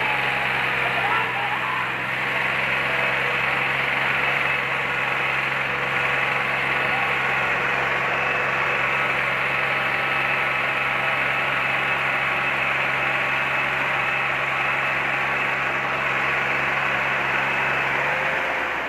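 Tractor diesel engine running steadily at a constant speed, straining under load in a tochan (tractor tug-of-war) pull, easing off near the end. Voices in the background.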